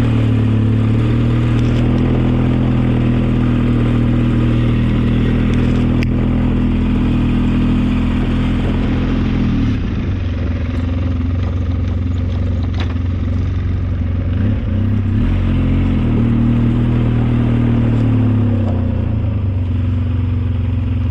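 Engine of an old snowplow vehicle running steadily while plowing snow. Its pitch drops about halfway through, rises again later and drops once more near the end as the revs change.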